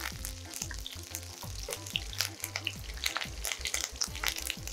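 Sliced garlic and curry leaves sizzling in hot sesame oil in a nonstick pan, with many irregular sharp crackles, stirred with a wooden spoon.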